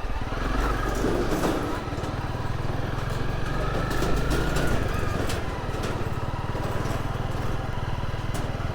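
Motorcycle engine running steadily with an even, rapid low pulse.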